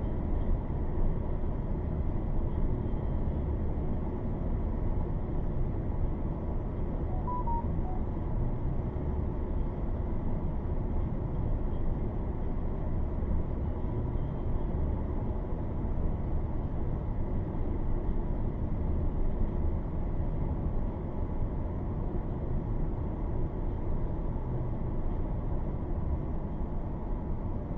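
Thunderstorm outdoors: a steady low rumbling rush of storm wind and rain with no let-up, plus a couple of faint short beeps about seven seconds in.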